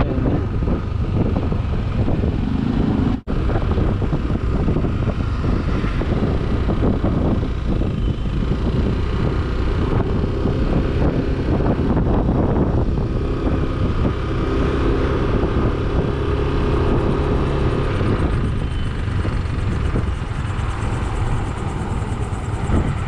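Wind rushing over the microphone while a Yamaha NMAX 155 single-cylinder scooter is ridden along the road, its engine running underneath. The sound cuts out for an instant about three seconds in.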